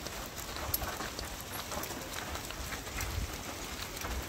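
Rain falling steadily, with many small scattered ticks of drops and footsteps on a gravel path.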